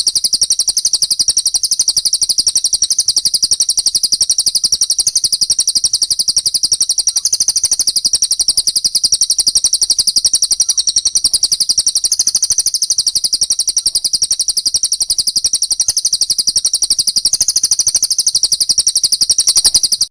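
Small songbird chattering in a fast, unbroken stream of high-pitched chirps, many a second, for the whole stretch.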